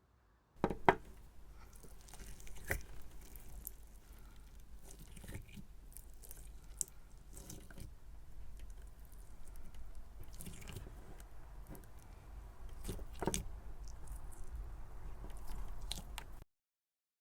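Hands squishing and poking cloud cream slime, a continuous soft sticky crackle dotted with small clicks and a couple of sharper pops; the sound cuts off suddenly near the end.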